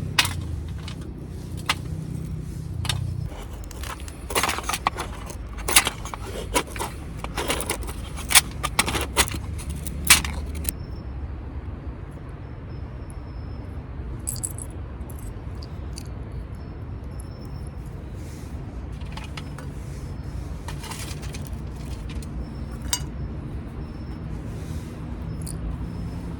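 Metal camping gear clinking and clattering as it is handled: a run of sharp clinks through the first ten seconds, then only scattered ones. A steady low rumble runs underneath.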